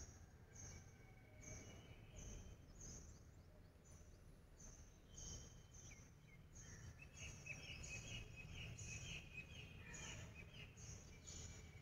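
Near silence with faint birds chirping: a high chirp repeated about twice a second, joined by other higher calls after about five seconds, over a low background hum.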